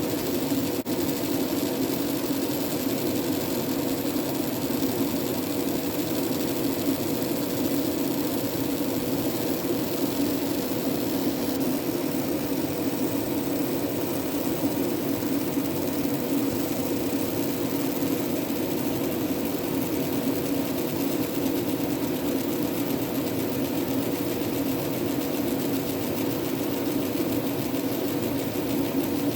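30 W fiber laser engraving machine running steadily while marking, a constant mechanical hum with a held tone. There is one faint click about a second in.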